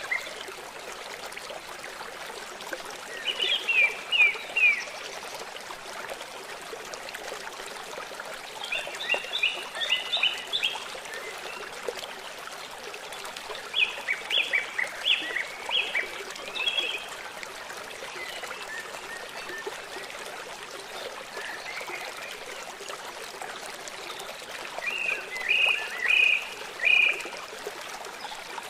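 A river flowing with a steady rushing of water, while a songbird sings four short phrases of quick repeated notes, spaced several seconds apart.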